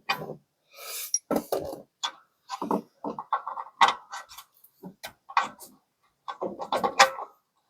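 Irregular metallic clinks and knocks, with a few sharp taps, from tools and a bolt being handled while the bolt is fitted into a shock absorber mount.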